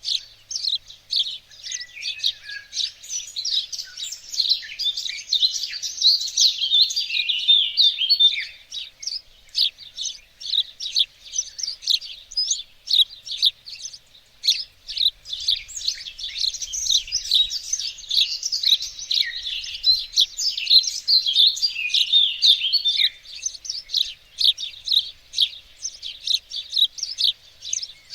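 Several small songbirds singing and chirping together: a dense stream of quick high chirps, with longer warbling phrases rising over them twice.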